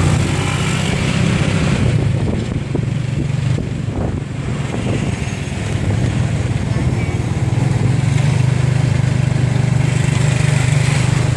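Motorcycle engine pulling a tuk-tuk, running steadily under way with road noise. It eases off a few seconds in, then picks up again and runs harder toward the end.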